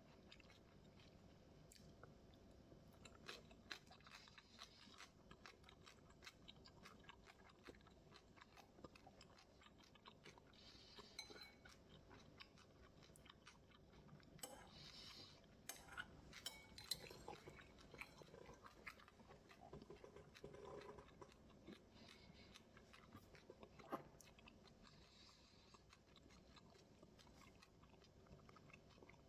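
Faint chewing and crunching of a mouthful of homemade bibimbap, with a few sharper clicks.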